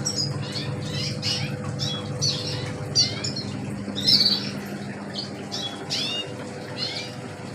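Several caged songbirds chirping, a quick run of short falling chirps, over a steady low hum.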